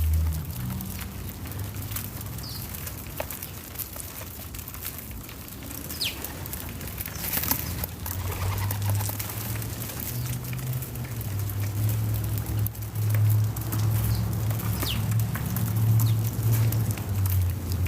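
Backyard outdoor ambience: a steady low rumble, louder in the second half, with scattered light ticks and a few short, falling bird chirps.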